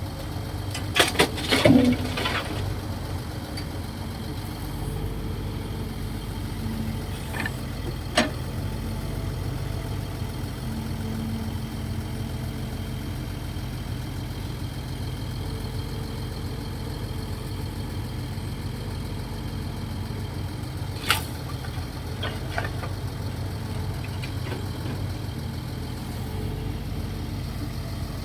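Kobelco SK135SR excavator's diesel engine running steadily, with a cluster of sharp knocks about a second in and single knocks near 8 and 21 seconds.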